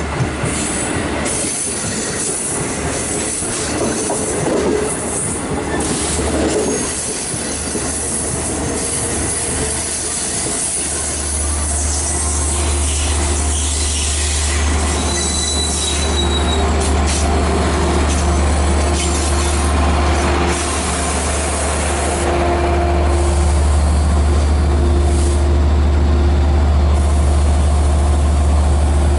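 Long Island Rail Road train hauled by a DE30AC diesel locomotive moving along the track, with wheels rolling and squealing on the rails. About a third of the way in, the locomotive's diesel engine comes in as a steady low drone that grows slowly louder, and there is a short high wheel squeal around the middle.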